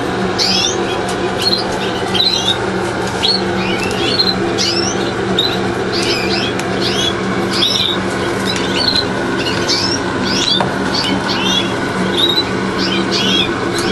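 Many canaries chirping and calling in a bird room, short quick chirps overlapping throughout, over a steady low hum.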